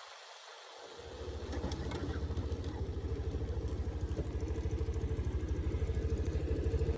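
Motorcycle engine running with a steady, even pulsing beat. It comes in about a second in and grows gradually louder.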